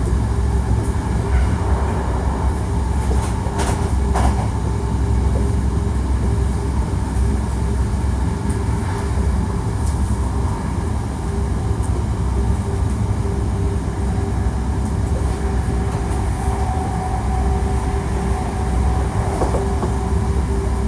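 Interior running sound of a Hankyu 1300 series electric train with Toyo IGBT drive, travelling at speed: a steady rumble of wheels and bogies under a constant whine, with a few faint rail-joint clicks.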